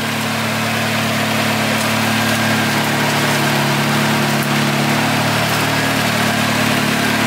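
Turbocharged car engine idling steadily, running on a base map that is not yet dialed in.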